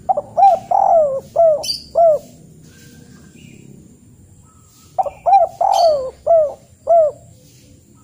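A bird calling: two phrases of five short notes, each note rising and falling in pitch, the second phrase about three seconds after the first.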